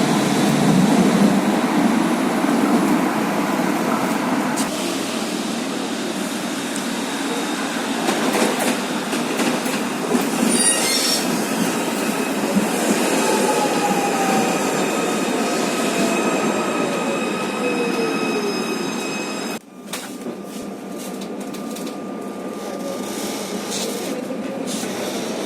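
Tram running on rails, wheels squealing, with the traction motor whine falling in pitch as it slows, and a motor whine rising again near the end as it pulls away. The sound drops out abruptly about twenty seconds in and comes back quieter.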